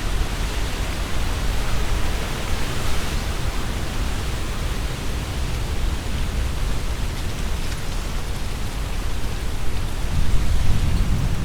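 Strong wind gusting through trees, the leaves rustling in a steady hiss, with a low rumble of wind buffeting the microphone that swells near the end as a stronger gust comes through.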